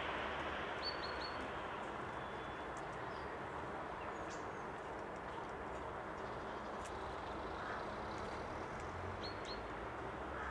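Tits giving short high call notes, three quick ones about a second in and two more near the end, over a steady background rumble.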